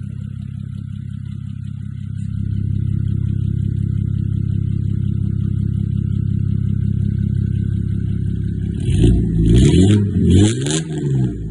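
Straight-piped Mercedes-Benz OM603 naturally aspirated straight-six diesel idling with a steady, loud exhaust note. Near the end it is given a few quick blips of the throttle, its pitch rising and falling each time.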